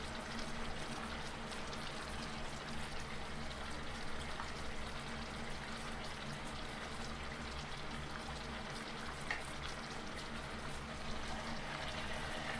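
Chicken broth with glass noodles simmering in a pan on a gas burner: a steady bubbling hiss, with a few light ticks of a utensil stirring against the pan.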